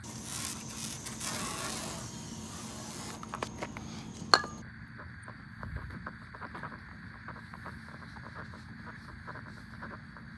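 Aerosol can of PB Blaster hissing as it is sprayed onto a headlight lens for about three seconds, then a sharp click and a long run of light, quick scratchy rubbing strokes as the lens is worked over.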